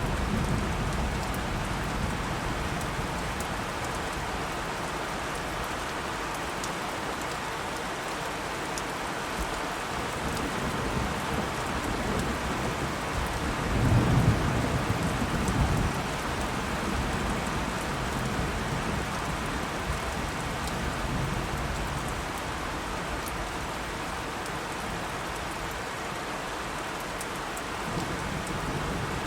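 Steady heavy rain with rolling thunder; a louder thunder rumble comes about halfway through.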